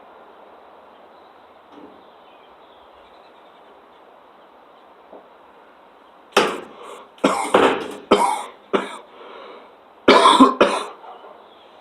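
A man coughing hard: a fit of about seven harsh coughs, starting about halfway through, after inhaling cannabis smoke.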